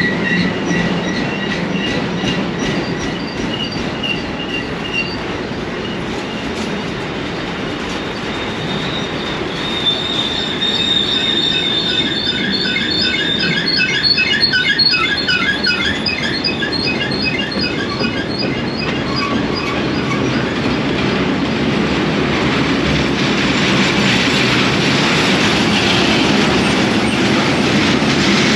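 Train rolling past with steady wheel-on-rail rumble and high metallic wheel squeals. The squeals come thick and fast in the middle, then the rolling noise grows louder toward the end.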